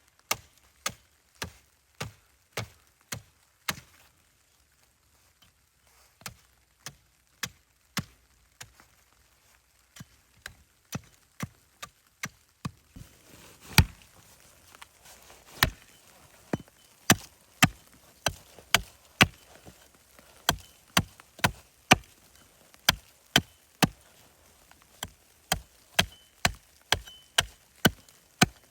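Wood being chopped: a long run of sharp, evenly spaced strikes, a little under two a second, with a short break about four seconds in. The blows get heavier in the second half.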